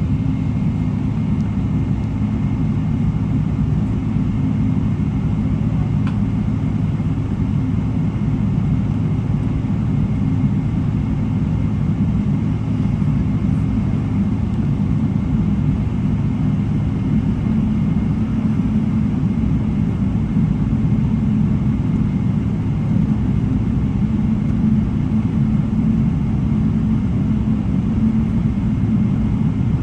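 Steady low rumble of a jet airliner, its engines and airflow running evenly with no change in pitch or level.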